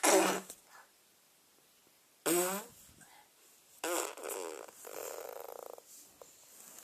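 A run of short comic noises: a loud burst at the start, one with a falling pitch about two seconds in, and a longer buzzing one from about four seconds to nearly six.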